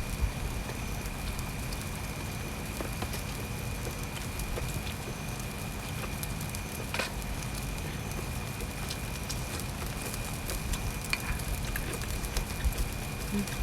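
Steady rain pattering on a camp tarp, with scattered small clicks and pops and a faint steady high tone.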